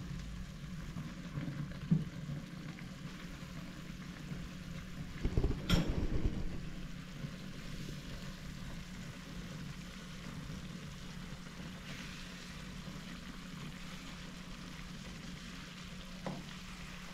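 Eggplants frying in sauce in a wok, a steady faint sizzle. Now and then a spatula and fork scrape and knock against the pan, loudest about five to six seconds in.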